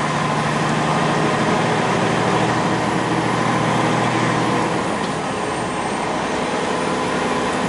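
Semi truck's diesel engine running steadily under load on a mountain-pass climb, heard from the cab along with road noise; the engine's low hum changes slightly about five seconds in.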